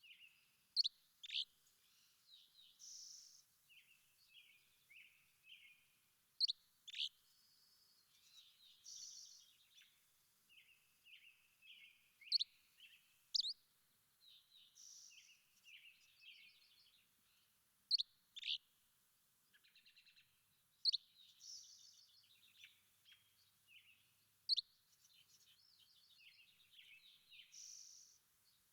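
Several songbirds singing and calling together. The loudest is a sharp, high whistled note that sweeps downward, usually given twice in quick succession and repeated every five or six seconds, over steady chirps, twitters and short trills from other birds.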